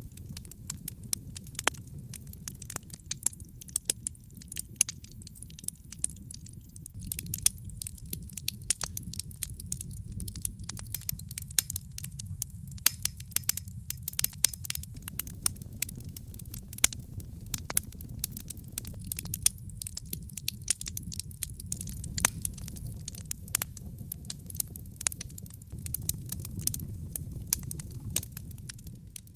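Wood fire crackling in a fireplace: frequent, irregular sharp pops and snaps over a steady low rumble of the burning logs.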